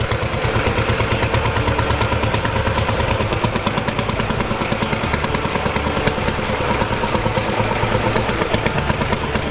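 Lanz Bulldog single-cylinder tractor engine running with a steady, even beat.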